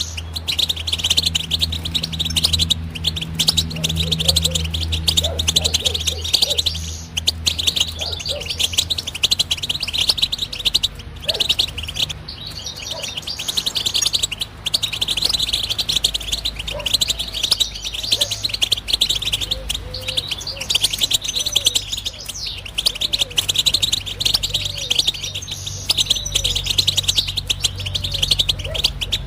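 European goldfinch singing a rapid, continuous twittering song, broken by a few short pauses, over a steady low hum.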